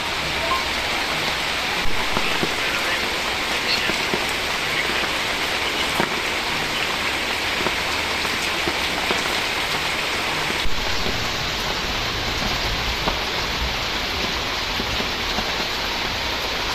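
Steady rain falling, a dense patter of drops. Its texture shifts abruptly about eleven seconds in.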